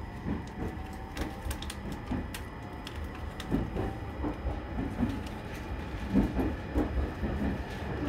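E721-series electric train pulling away from the station, heard from inside the carriage: a steady low rumble of wheels on rail with scattered clicks from the track, and a faint motor whine rising slowly in pitch over the first few seconds as it accelerates.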